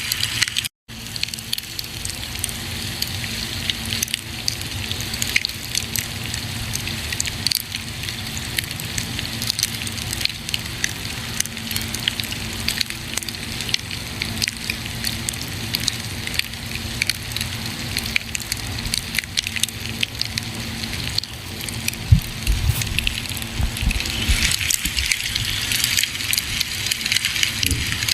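Campfire burning, with dense irregular crackles and pops over a steady low rumble of the flames. The sound drops out completely for a moment about a second in, and a few low thumps come about two-thirds of the way through.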